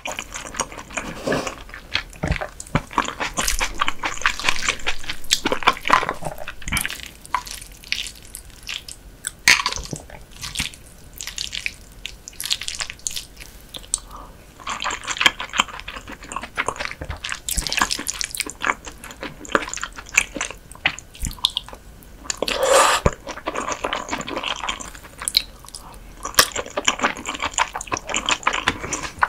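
Close-miked wet chewing and mouth sounds of a person eating soft raw whitebait with a seasoned vegetable salad: a dense, irregular run of moist clicks and smacks, in several mouthfuls.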